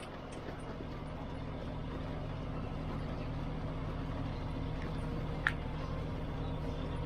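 John Deere 7520 tractor's diesel engine running steadily under load, pulling wagons loaded with straw bales. There is a single brief click about five and a half seconds in.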